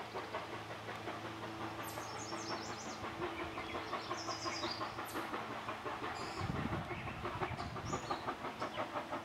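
A train running with a fast, even rhythmic beat, about four or five beats a second, over a steady hum, with birds chirping over it several times.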